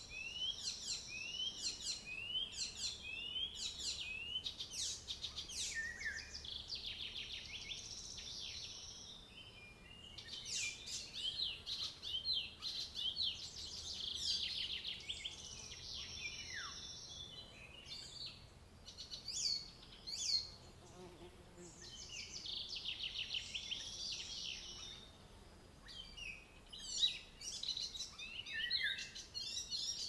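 Songbirds singing: a short rising note repeated about twice a second at first, then chirps and fast trills that come and go.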